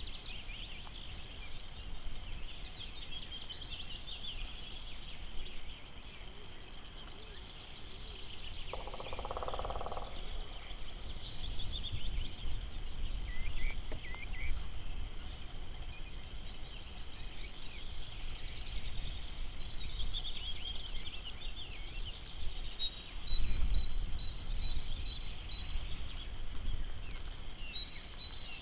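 Mixed song of several small birds, great tit among them, with a woodpecker drumming for about a second around nine seconds in. A string of quick repeated high notes comes near the end. A low rumble runs underneath and swells briefly about 23 seconds in.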